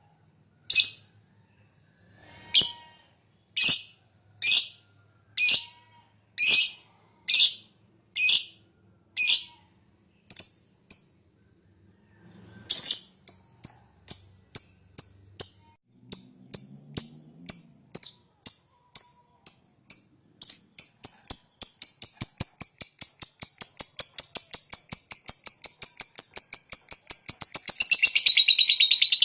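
Lovebird calling: sharp shrill single calls about once a second, then after a short pause a chatter that speeds up into a long unbroken run of about five quick notes a second, the long 'ngekek' chatter that fanciers prize.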